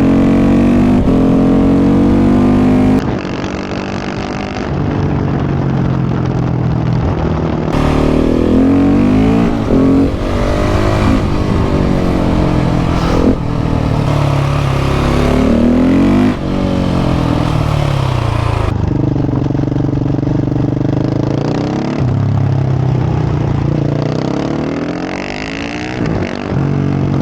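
KTM 690 SMC R single-cylinder engine through a Leo Vince aftermarket exhaust, ridden hard on board: the revs climb and drop over and over as it pulls through the gears and shuts off.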